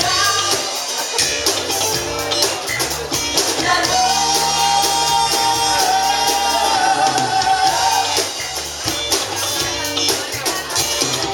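A rock band playing with a lead singer, guitar and drums keeping a steady beat; about four seconds in the singer holds one long note for several seconds.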